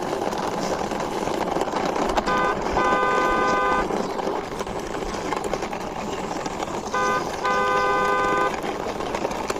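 A horn sounding twice, each time a couple of short toots followed by a longer held toot, over a steady noisy background.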